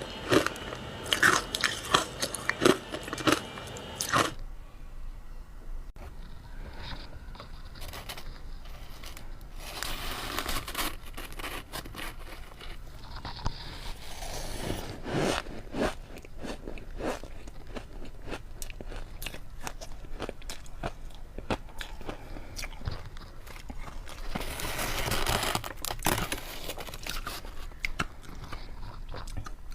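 A person biting and chewing ice close to the microphone. Loud, sharp crunches come in the first four seconds, then a long run of quieter crackling chews with a few louder crunches in between.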